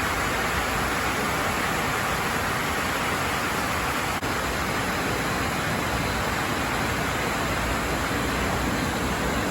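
Heavy rain falling steadily, an even hiss with a momentary break about four seconds in.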